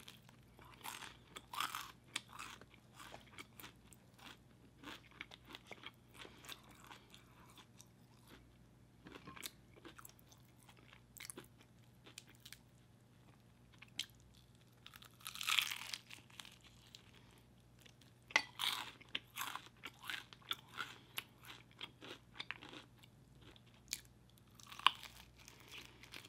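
Close-miked biting and chewing of KFC extra crispy fried chicken: the breading crunches and crackles in irregular bursts, with several louder bites spread through, over a faint steady hum.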